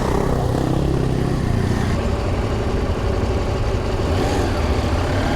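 KTM adventure motorcycle's engine running at fairly steady revs while riding an off-road track, with steady road and wind noise.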